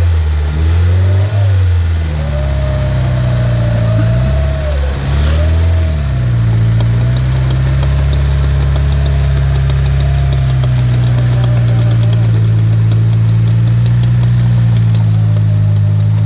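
Off-road vehicle's engine revving up and down several times, then running at a steady speed from about six seconds in.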